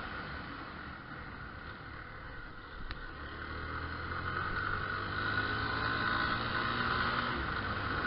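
Yamaha Fazer 250 motorcycle engine running on the move, with wind noise on the mic; it eases off, then picks up and grows louder from about three seconds in as the bike speeds up.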